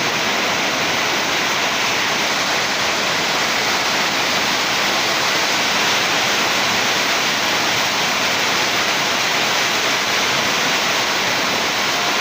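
Steady loud rushing noise with no pitch or rhythm.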